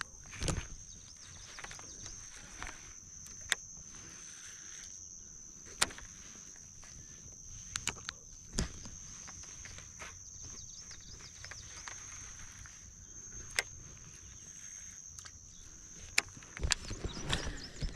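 Steady high-pitched insect drone, with scattered sharp clicks and knocks and a louder rustling, clattering spell near the end.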